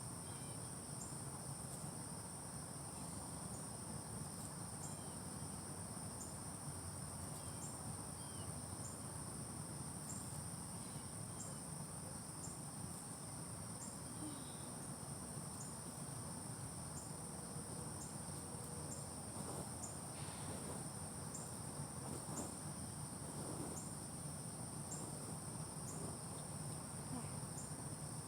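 Insects chirping outdoors: a steady high-pitched trill with a short, regular chirp about once a second, over a faint low rumble.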